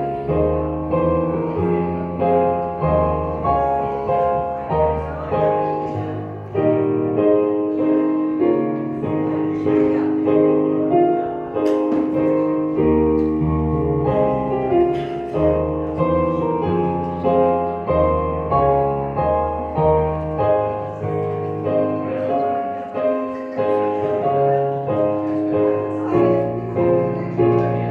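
Piano music: slow, sustained chords and melody notes.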